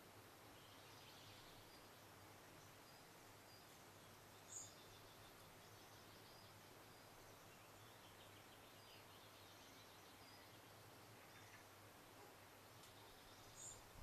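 Near silence: faint outdoor ambience with distant small birds singing now and then. Two short, high chirps stand out, one about four and a half seconds in and one near the end.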